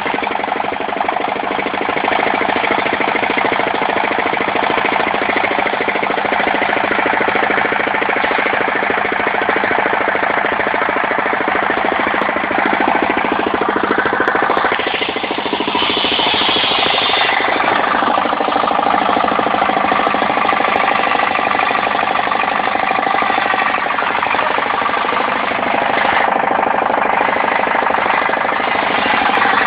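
Engine of a portable circular sawmill running steadily with a fast knocking beat. The noise changes briefly about halfway through.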